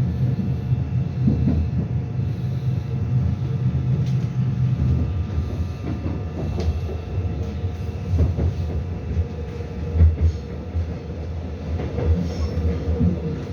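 Busan Metro Line 2 subway train running along the track: a steady rumble of wheels on rail with a thin steady whine. A few sharp clicks come over rail joints, one around 4 s in and more between about 6 and 10 s.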